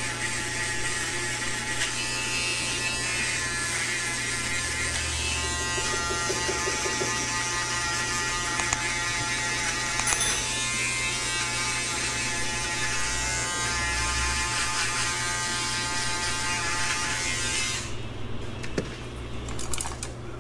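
Electric hair clipper buzzing steadily as it cuts beard hair, switched off abruptly near the end.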